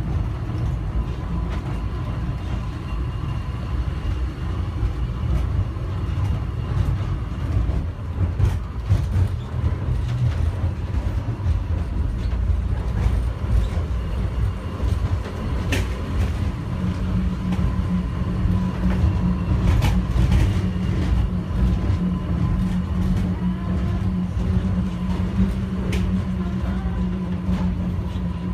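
Airport inter-terminal people-mover train running between stations, heard from inside the car: a steady rumble with a faint constant whine. About 17 seconds in, a strong low motor hum sets in and holds, and there are a few sharp clicks along the way.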